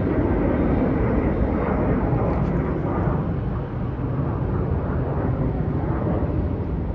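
Jet engine roar of a departing Boeing 787 Dreamliner climbing away after takeoff: a steady low rumble that eases off slightly toward the end.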